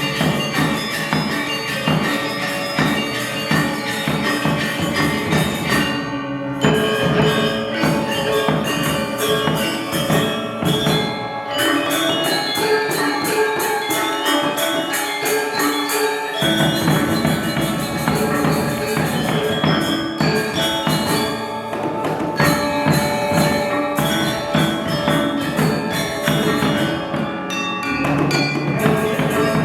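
Balinese gamelan gong ensemble playing: bronze metallophones ringing in dense interlocking patterns over drums and gongs. The drums and low gongs thin out for a few seconds near the middle, then come back in.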